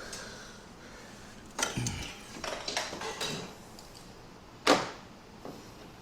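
Metal tools and parts clinking and clattering during hand work in a car's engine bay. There is a thump with clatter about one and a half seconds in, a run of lighter rattling clinks after it, and one sharp metallic knock near the end, which is the loudest sound.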